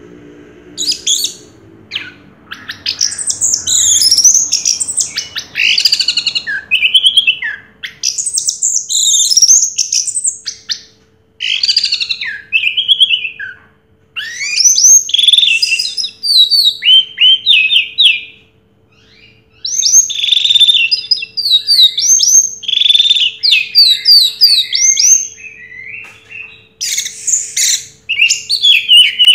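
Orange-headed thrush singing a long, varied song of rapid whistled and chattering phrases, broken by a few short pauses.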